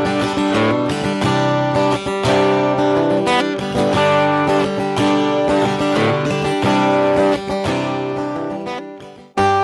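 D&D Django Senior acoustic guitar strummed through a ballad chord progression, the chords ringing. Near the end the playing fades almost to nothing for a moment before a new strummed chord comes in.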